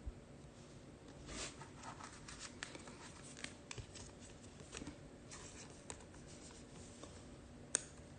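Faint rustling and light ticks of trading cards being handled and slid through the hands, with one sharper click near the end.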